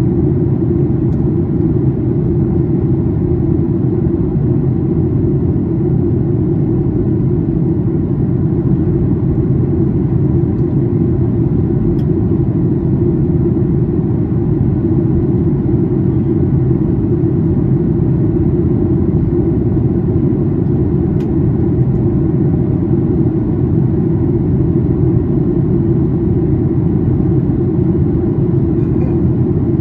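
Steady low drone inside the cabin of a Boeing 737-800 during its descent: the CFM56-7B turbofans and the airflow over the fuselage make an even rumble that does not rise or fall.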